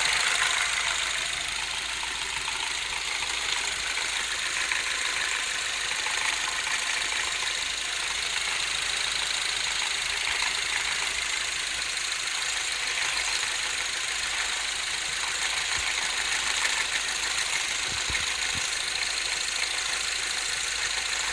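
BMW MINI R56 engine idling with a steady mechanical clatter, the loud 'pata-pata' noise that the owner hears after starting it and cannot identify.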